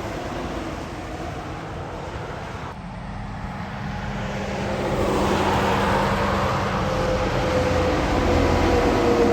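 Heavy truck passing on a wet road: the hiss of its tyres and the drone of its engine swell about halfway through and stay loud to the end.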